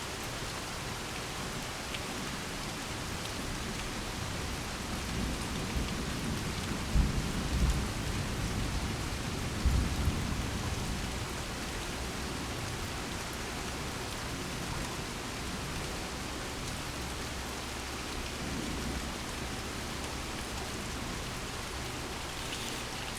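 Steady rain falling, with a low rumble of thunder that swells about five seconds in, peaks twice, and dies away after a few seconds.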